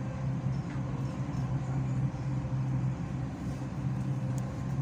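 Cabin noise of an elevated passenger train running along its track: a steady low hum and rumble.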